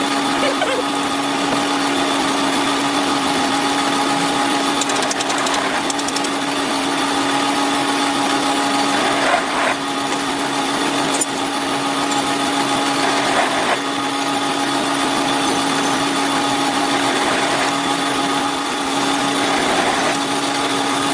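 A workshop machine's electric motor running steadily, with a constant hum and a few light clicks and scrapes from the work.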